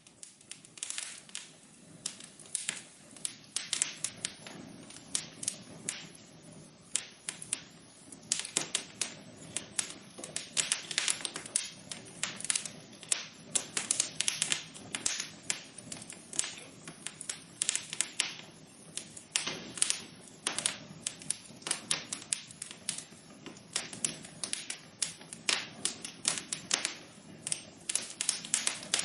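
Wood fire burning in a fireplace, crackling with many irregular sharp pops and snaps over a low steady hiss of the flames.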